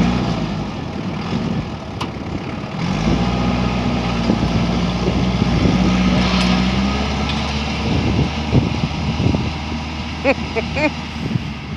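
Tractor engine running, its pitch rising about three seconds in, holding steady, then dropping back, as the tractor pulls a middle buster through the potato rows.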